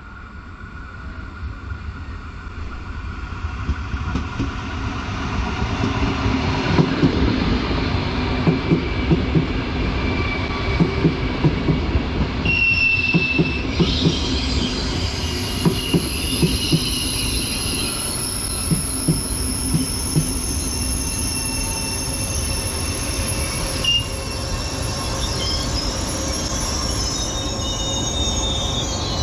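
PKP Intercity ED250 Pendolino electric multiple unit arriving, growing louder over the first few seconds. Its wheels knock in quick pairs over rail joints and points, and from about halfway a high, steady wheel squeal comes in.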